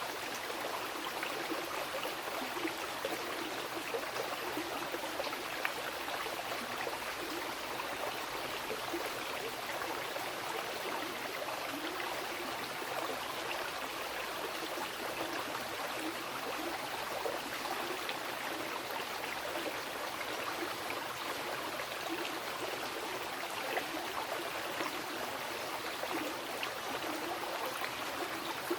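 Mountain river rushing and splashing over rocks: a steady, even flow of water noise.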